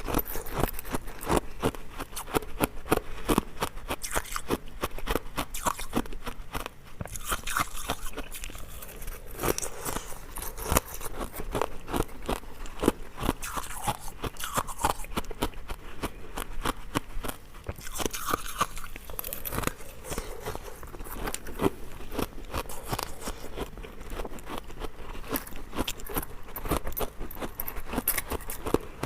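Ice cubes being bitten and chewed close to the microphone: a continuous run of sharp, irregular crunches and cracks.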